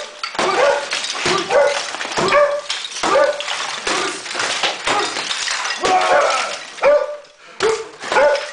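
A dog barking repeatedly in short loud barks, one or two a second, with a brief pause near the end.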